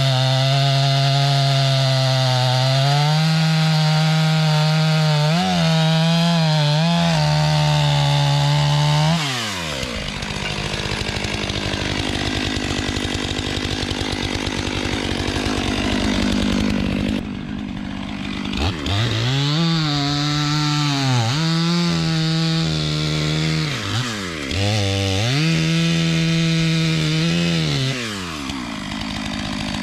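Stihl MS500i fuel-injected two-stroke chainsaw running at full throttle while bucking logs. It drops off about nine seconds in to a quieter stretch, then revs back up in the second half in three runs with short dips between them.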